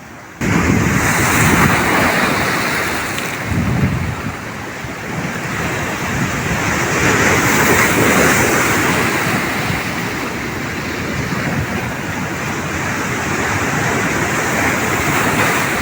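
Mediterranean Sea waves washing in: a steady rushing surf that swells and eases, with wind buffeting the microphone.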